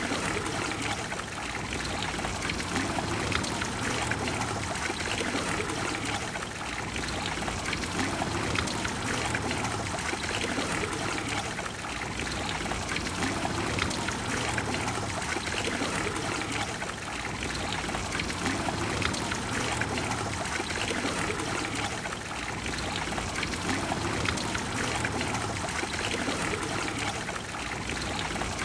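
Water of the Trevi Fountain falling and splashing steadily into its basin.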